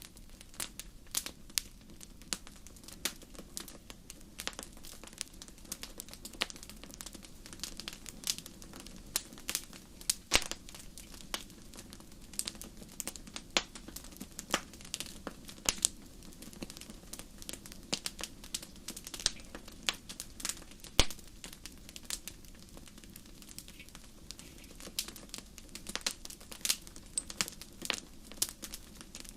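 Fire crackling in a fireplace: irregular sharp pops and snaps, several a second, some louder than others, over a steady low hum.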